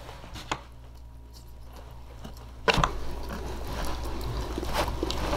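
Close-miked eating sounds: someone chewing and biting a mouthful. Faint at first with a single click, then louder and continuous from about halfway through.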